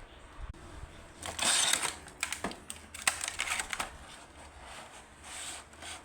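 Hands handling the packaging and plastic parts of a small model airplane during unboxing and assembly. A short burst of rustling comes about a second and a half in, followed by a run of sharp clicks and taps, then a softer rustle near the end.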